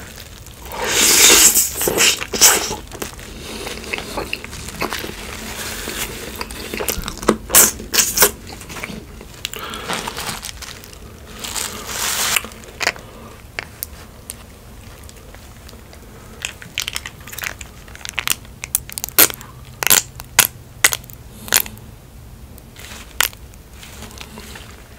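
Close-miked eating of In-N-Out animal-style food: a loud crunching bite about a second in, then chewing with many short, sharp mouth clicks, thicker in the second half.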